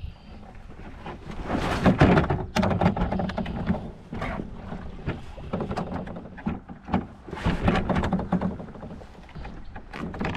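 Paddle craft being paddled: paddle strokes splashing and swishing in the water, with knocks against the hull, irregular and loudest about two seconds in.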